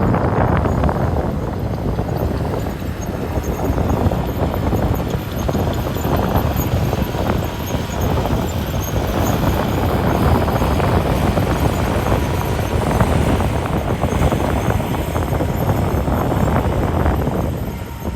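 Ocean surf on a beach mixed with wind blowing across the microphone: a loud, steady rushing that slowly swells and eases.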